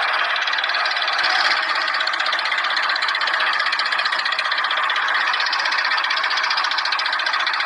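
Small motor and gears of a miniature toy tractor running steadily with a fast, even rattling buzz.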